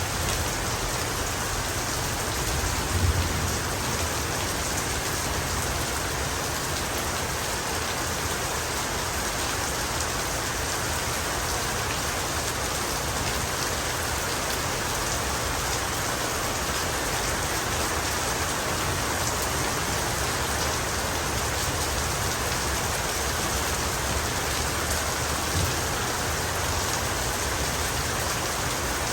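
Heavy rain falling steadily, an even hiss of many drops on surfaces, with a brief low thud about three seconds in and another near the end.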